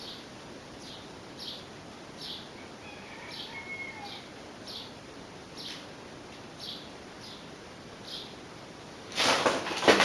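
A small bird chirping repeatedly, short high chirps roughly once a second, over a faint hiss. About nine seconds in, a loud burst of clattering knocks.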